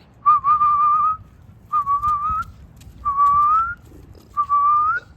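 Four drawn-out whistle-like notes, each just under a second long and rising slightly at the end, repeating about every one and a half seconds.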